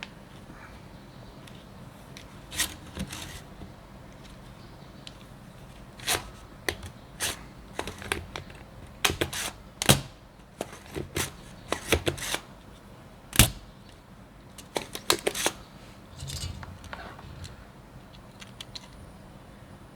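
Irregular sharp clicks and light taps of small tools and camera parts being handled, bunched through the middle, with the loudest click about two-thirds of the way in.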